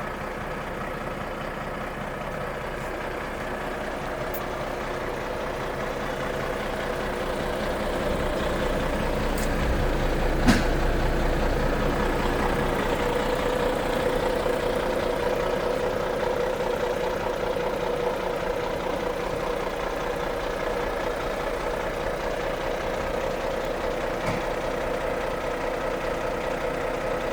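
Renault truck's turbo-compound diesel engine running steadily. It grows louder over the first ten seconds or so, then eases slightly, with a single sharp click about ten seconds in.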